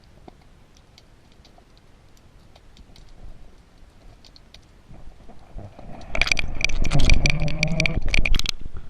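Underwater sound: faint scattered clicking, then a loud rumbling noise with a steady whine that starts suddenly about six seconds in and cuts off abruptly near the end.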